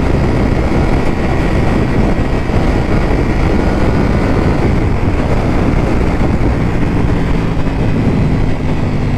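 Ducati V4 motorcycle being ridden: dense rushing wind and road noise over the engine. About two-thirds of the way in, a steady engine note comes through more clearly and eases slightly lower near the end.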